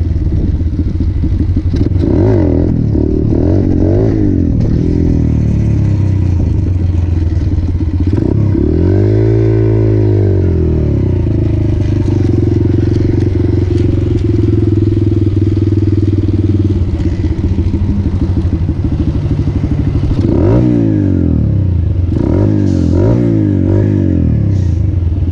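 Motorcycle engine running just after a bump start, the revs rising and falling several times, with one big rev about nine seconds in and steady running in between.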